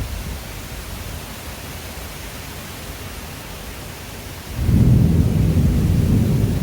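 Heavy downpour hissing steadily. About four and a half seconds in, a loud low rumble of thunder starts suddenly and keeps going.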